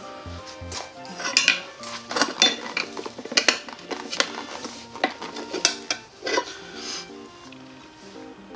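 Metal tools and parts clinking and knocking against each other in a string of irregular strikes, over background music.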